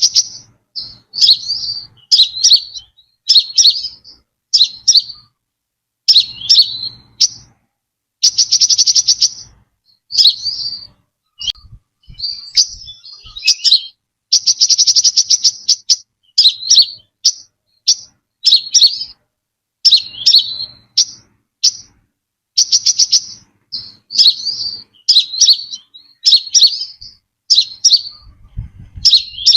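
Brown-throated sunbird calling: short, sharp, high-pitched chirping phrases repeated about once a second, with two longer rapid trills about 8 and 14 seconds in.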